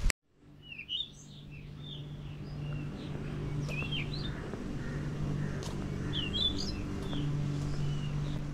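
Small birds chirping in short, scattered calls over a steady low hum, the sound fading in from silence at the start.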